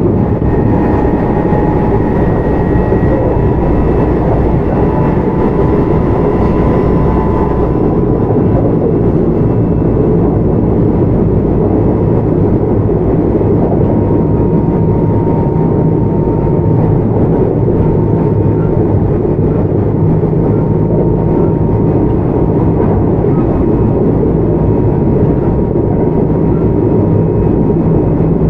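Kintetsu 1031-series electric train running at speed: a steady rumble of wheels on track with a thin, steady whine on top. The whine loses its higher tones about seven seconds in, and one tone carries on.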